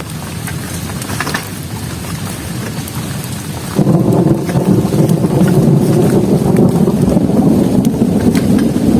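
Heavy rain falling, with scattered drop taps. About four seconds in, a much louder, deeper rumble starts abruptly and holds.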